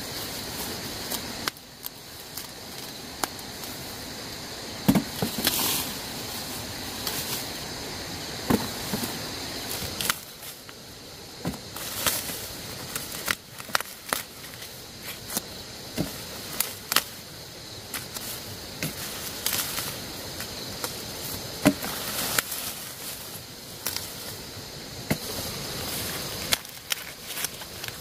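Irregular sharp snaps and knocks, scattered at uneven intervals, over a steady high hiss.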